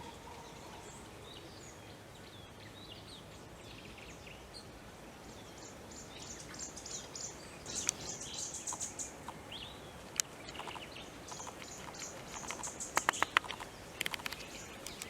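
Wild birds calling over a steady background hiss: scattered short high chirps, a fast even run of high repeated notes about halfway through, and a quick burst of loud, sharp calls near the end.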